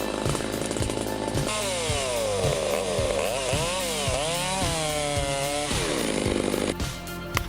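Chainsaw cutting wood, its engine pitch falling and rising several times, over background music with a steady beat.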